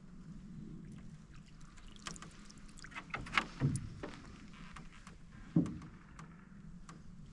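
Canoe paddle strokes: the paddle dips and splashes in the water, with a few sharp knocks from the canoe about three seconds in and again about five and a half seconds in.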